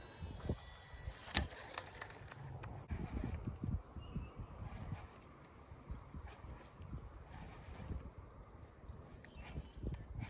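A bird calling: a short, high note sliding downward, repeated five times one to two seconds apart, over a low rumble.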